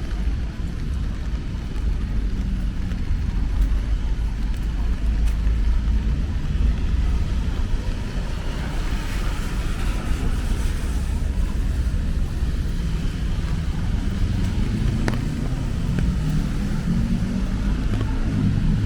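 City road traffic in the rain: cars going by with a steady low rumble, one passing closer about nine to eleven seconds in.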